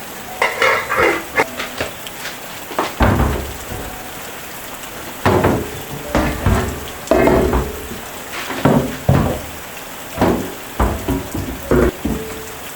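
Kitchen work: a utensil knocking and scraping against a pot and dishes in irregular clusters of clatter, some with a duller thud, over a steady hiss.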